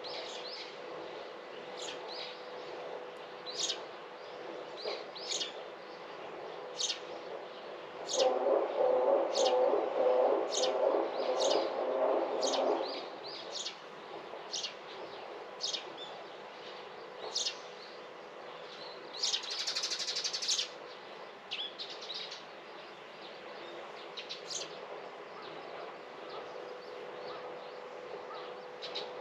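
Small birds chirping in a garden: short, high, sharp notes repeated about once a second. About a third of the way in, a louder, lower sound runs for about five seconds.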